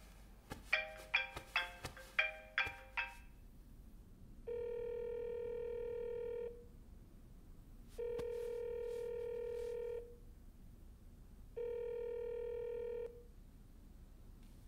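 A phone ringing out on an outgoing call: three long, steady ringback tones of about two seconds each, with short gaps between them. They follow a quick run of short chiming plinks in the first few seconds.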